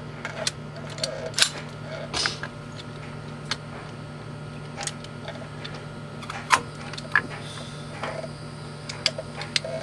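Scattered metallic clicks and knocks at irregular intervals as a brake caliper and pads are worked back onto the rotor, the caliper piston not yet pushed in far enough for them to fit. A steady low hum sits underneath.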